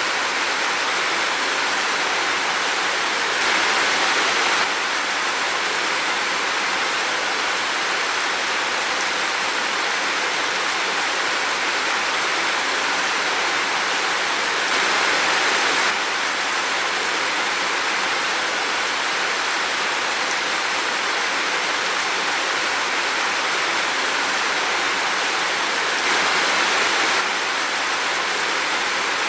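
Heavy rain, a steady dense hiss that swells briefly louder three times, about every eleven seconds.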